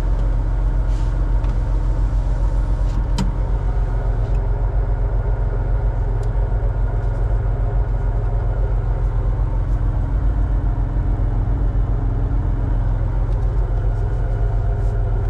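BMW 325 Cup race car's engine idling steadily with a fast, even pulse, and a single sharp click about three seconds in.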